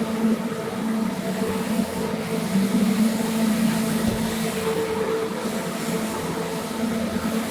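Carpet-cleaning machine running steadily: an even motor drone with hiss, unchanging throughout.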